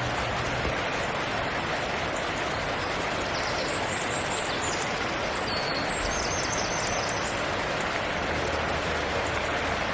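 Steady rush of falling water, a constant even hiss, with a few faint bird chirps over it in the middle.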